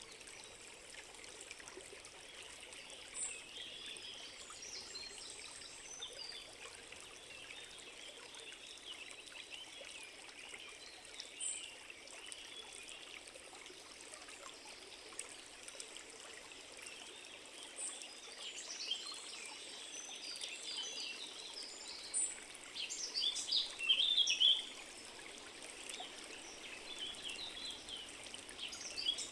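A forest stream running steadily, with small birds chirping over it. The birdsong becomes busier and louder about three-quarters of the way through.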